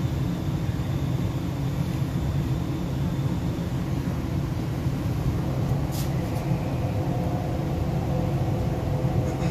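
MTR R-Train electric multiple unit running along the line: a steady low rumble of wheels and running gear, with one sharp click about six seconds in and a faint steady whine coming in during the second half.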